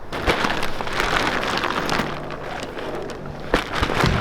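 Surfboards and a padded board bag being handled and packed: steady rustling and scraping, with a couple of sharp knocks near the end.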